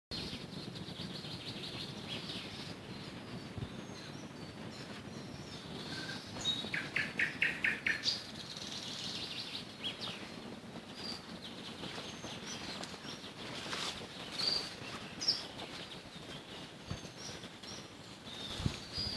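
Nightingales singing among other songbirds, with many short high chirps and, about six seconds in, a quick run of about six repeated notes.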